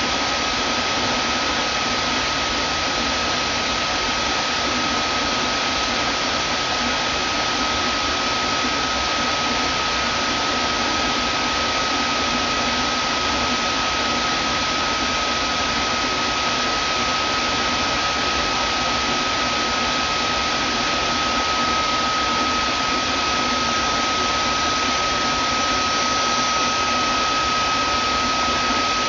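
Vacuum cleaner running steadily: a constant rushing of air with a steady high whine from the motor.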